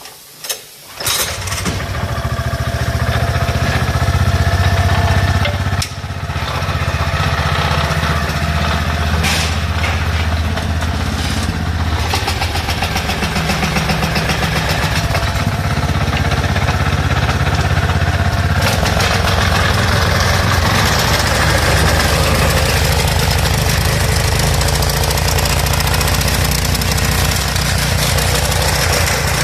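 Small gasoline engine of a Yamato Power engine winch starting about a second in after a couple of short knocks, then running steadily. The note turns harsher and noisier about two-thirds of the way through.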